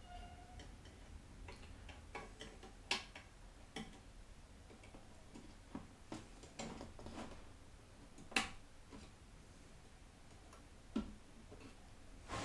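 Scattered small clicks and taps from handling a tiny SSD and the PC parts while trying to fit it, irregular and quiet, with one sharper click a little past the middle.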